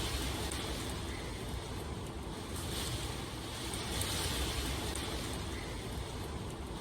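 Steady rain ambience: an even rushing hiss over a low rumble, with the upper hiss swelling a little every few seconds.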